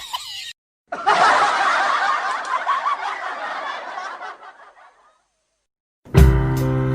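Laughter sound effect: a chuckle cuts off at the start, then a group of people laughs together for about four seconds and fades away. Music starts near the end.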